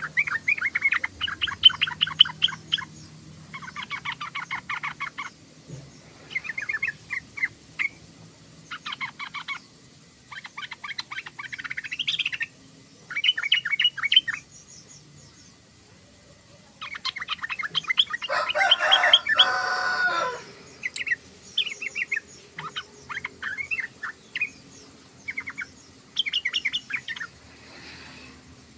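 Yellow-vented bulbul (trucukan) chattering: rapid, bubbly phrases repeated in bursts of one to three seconds with short pauses, and one louder, fuller burst about two-thirds of the way through.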